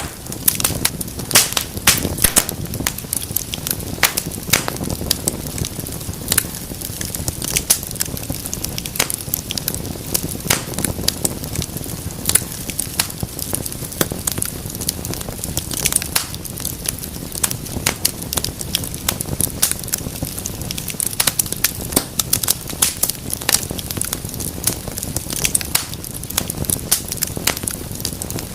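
Wood fire burning in a fireplace, crackling and popping continuously with many sharp snaps over a low rumble of the flames.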